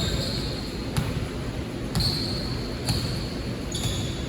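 Basketball bouncing on a gym court, about once a second, with short high-pitched squeaks of sneakers on the floor in between.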